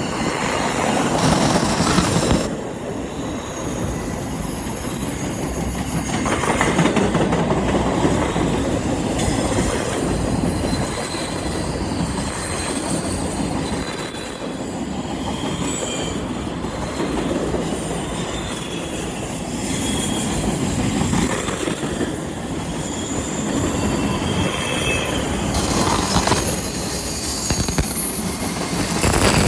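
Double-stack container train's well cars rolling past: a steady rumble of steel wheels on rail that swells and eases, with thin, high wheel squeal coming and going as the wheels take the curve.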